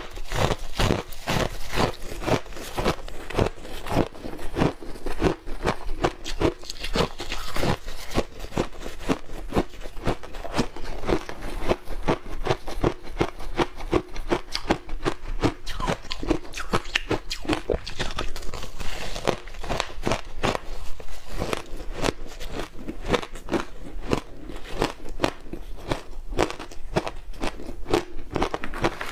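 Ice coated in matcha powder being bitten and crunched close to the microphone: a rapid, continuous run of crisp cracks and crunches, several a second, with chewing in between.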